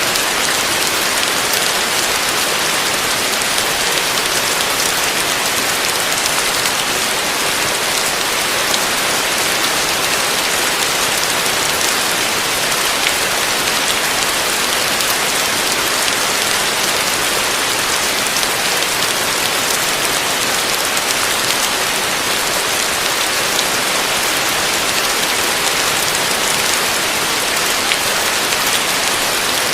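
Heavy rain falling steadily: a dense, even hiss with many small sharp drop hits scattered through it.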